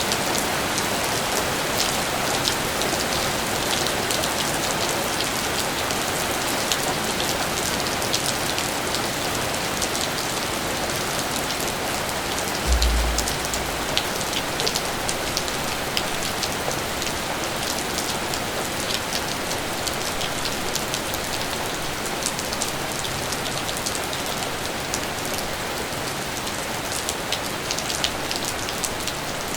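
Steady rain falling, with a dense patter of separate drops hitting a surface. About halfway through there is one brief low thump, the loudest moment.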